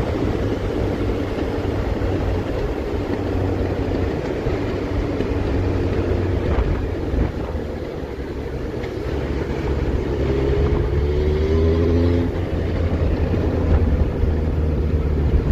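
Yamaha FZS1000 Fazer's inline-four engine running on the move, with wind and road noise. Around ten seconds in, a brief rising engine note as it pulls harder.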